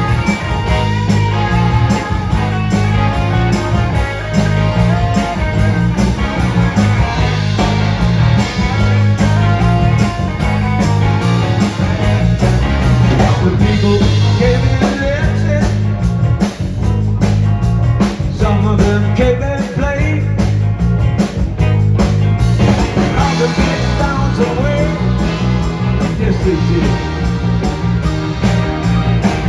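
Live rock band playing a late-1960s-style rock number, loud and continuous, with electric guitar over bass and drums.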